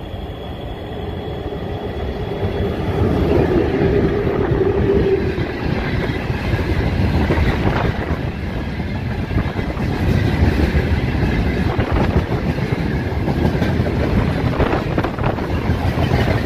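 Freight train hauled by a VL10u DC electric locomotive passing close by. Its noise swells over the first few seconds, with a brief steady hum about three to five seconds in. The wagons then rumble and clack past on the rails.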